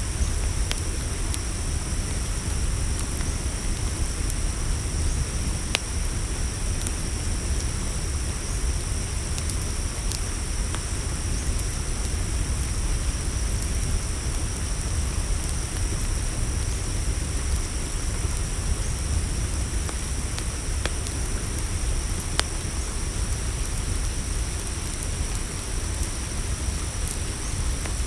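Campfire crackling, with a few sharp pops here and there over a steady low rumble, and a continuous high-pitched chorus of crickets.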